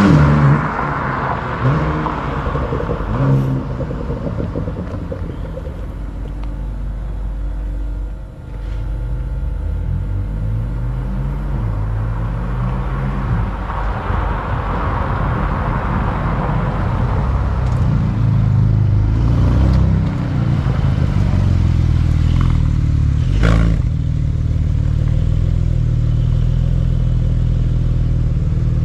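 Porsche 911 992 Turbo S twin-turbo flat-six running through a Quicksilver stainless steel exhaust with X-pipe, rising and falling in pitch through several revs before settling into a steady run. One sharp crack about two-thirds of the way through.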